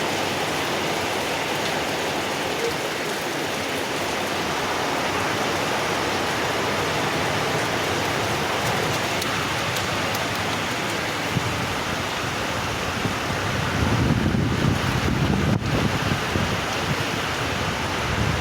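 Heavy rain falling steadily, an even hiss. A low rumble swells briefly about fourteen seconds in.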